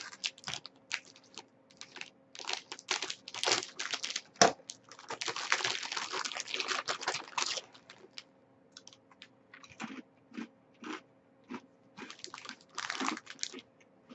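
A plastic food wrapper crinkling, then crisp crunches as a hard, dry poppy-seed bread roll is bitten and chewed. The crunches grow sparser after about eight seconds.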